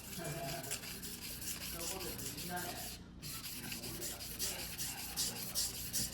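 A Mizuno Tanrenjo white-steel fuguhiki sashimi knife being ground by hand on a whetstone: repeated back-and-forth scraping strokes of steel on stone, with a brief pause about three seconds in.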